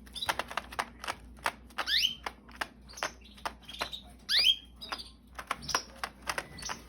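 Canaries making a few short sweeping chirps among a run of sharp, irregular clicks and taps, about two or three a second.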